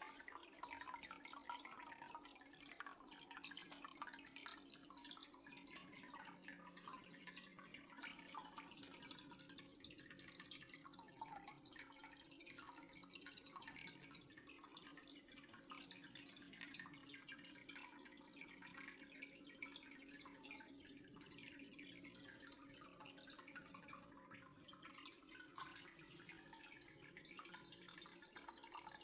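Faint water dripping, many small drips in quick succession, over a low steady hum.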